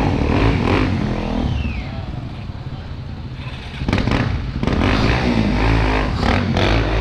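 Off-road dirt bike engine revving hard. The revs drop back about two seconds in and pick up loudly again about four seconds in, with a few sharp knocks.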